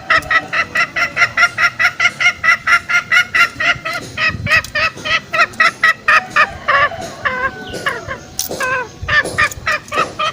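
Green junglefowl lure call: a fast, even run of sharp pitched clucks, about five a second, that slows into a few irregular notes in the last few seconds.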